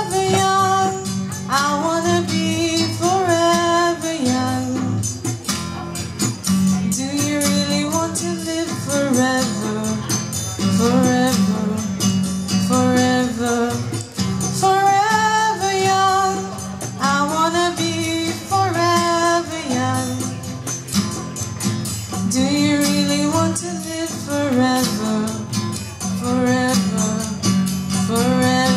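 A woman singing a melody in phrases, accompanied by guitar.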